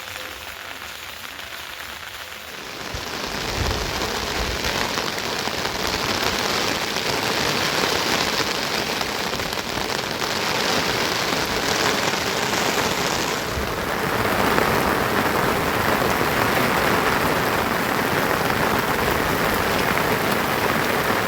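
Heavy rain falling steadily, growing louder about three seconds in.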